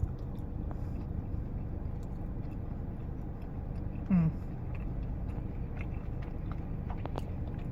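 Someone biting and chewing a lemon cookie, with a short hum of voice about four seconds in, over the steady low rumble of a car's interior.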